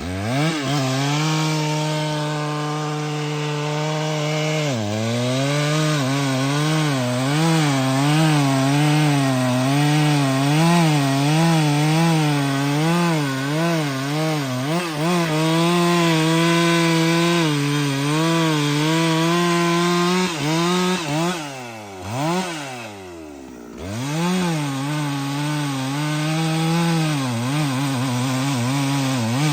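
Chainsaw running at high revs while cutting wood, its pitch wavering up and down as the chain bites. The revs drop off and pick back up about five seconds in, and again twice a little past the twenty-second mark.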